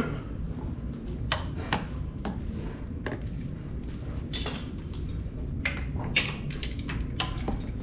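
Scattered clicks and light metallic clanks, about ten of them at uneven intervals, from tools and parts being handled during assembly work, over a steady low rumble.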